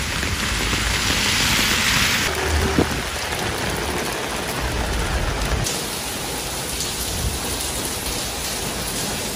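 Heavy rain pouring steadily, its hiss loudest for the first two seconds and then easing a little. A low rumble runs underneath for a few seconds in the middle.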